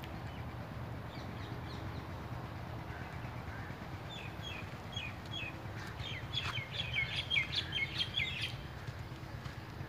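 A bird chirping in a quick run of short notes, starting about four seconds in and growing louder before it stops near the end, over a steady low background noise.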